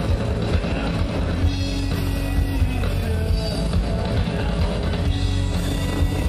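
Rock music playing steadily, a band with drum kit and guitar.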